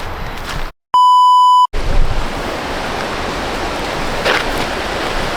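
A censor bleep: a steady high beep lasting under a second, about a second in, after a brief cut to silence. Around it runs a steady rushing noise.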